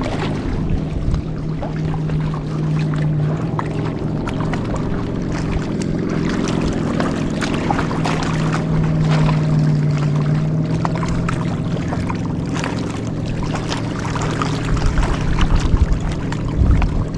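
A motor hums steadily at a low pitch throughout, with many small sharp clicks and ticks over it.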